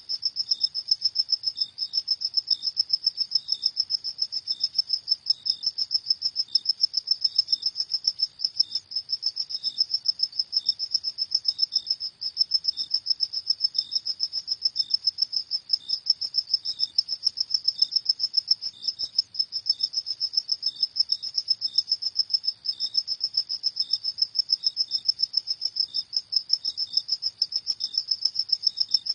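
Crickets chirping at night: a high, rapid and even run of chirps, many a second, going on without a break.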